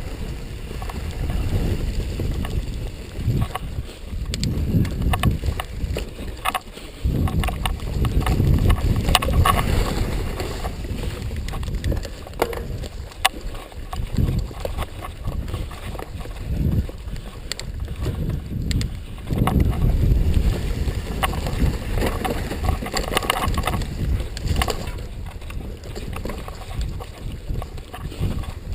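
Mountain bike ridden over a rough dirt trail: a surging low rumble of wind buffeting the microphone, with frequent knocks and rattles from the bike over the bumps.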